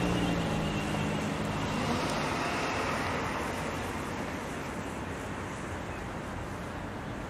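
Union Pacific freight train going by: the diesel locomotives' engine hum fades in the first couple of seconds, leaving a steady rumble of rolling cars that slowly grows quieter.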